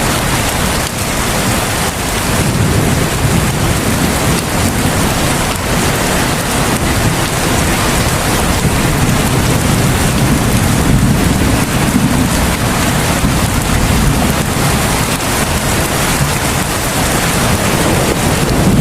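Heavy rain falling steadily, with a low rumble that swells and fades a few times under the hiss.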